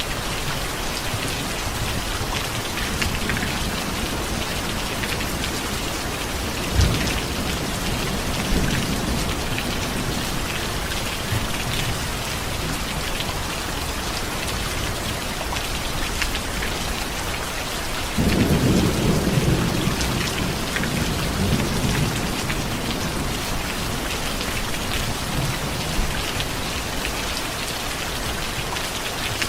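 Steady rain falling, with thunder: a sharp crack about seven seconds in, and a louder rolling rumble that starts suddenly past the middle and fades over a few seconds.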